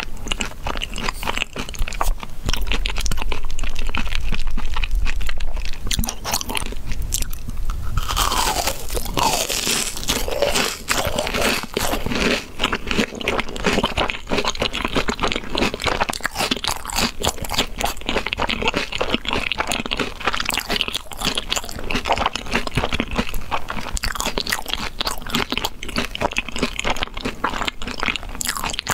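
Close-miked biting, crunching and chewing of a deep-fried, crumb-coated ball, with dense crisp crackles throughout and a louder bite about eight seconds in.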